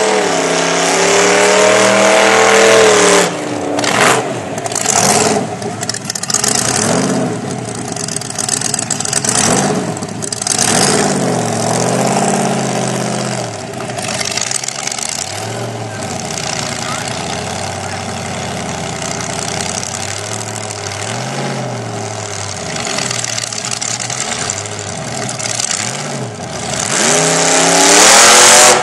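8-71-supercharged small-block Chevrolet V8 in a Ford Ranger drag truck, revved repeatedly, its pitch rising and falling between throttle blips. It revs up hard near the end, the loudest part.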